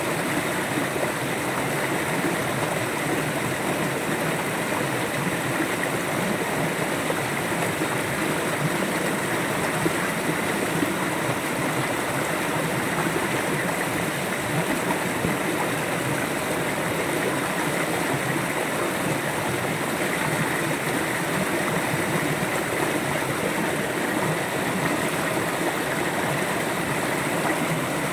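River water flowing steadily, an even rushing and gurgling with no pauses or breaks.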